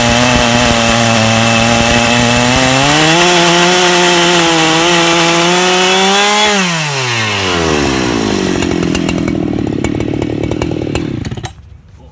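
Chainsaw on a portable chainsaw mill ripping a plank from a log with a freshly filed new chain, finishing the first board. The revs climb about 3 s in, drop away when the throttle is released about 6.5 s in, and the saw idles briefly before it is shut off near the end.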